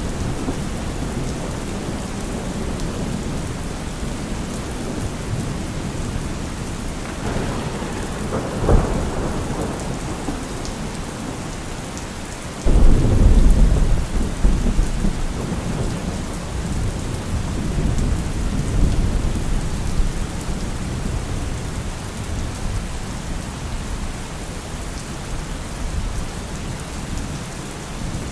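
Steady heavy rain with thunder. A rumble swells about a third of the way in; just before halfway a sudden loud thunderclap breaks into a deep rumble that rolls on for several seconds and fades.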